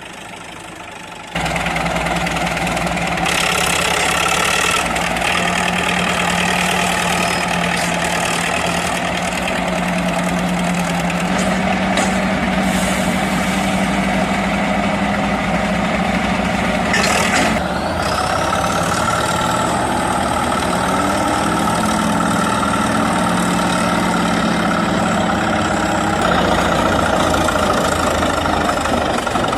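Heavy diesel engines of working machines running under load: a steady low drone whose pitch shifts a little. It gets much louder just over a second in, and about halfway through a high whine rises and then holds.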